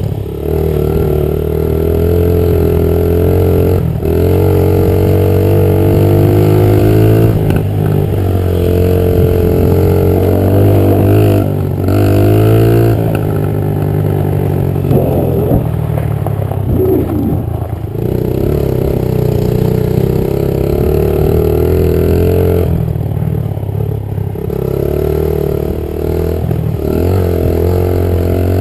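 Honda 50 pit bike's small single-cylinder four-stroke engine running while being ridden, its pitch climbing and dropping again and again as the throttle is opened and shut, with a few brief knocks.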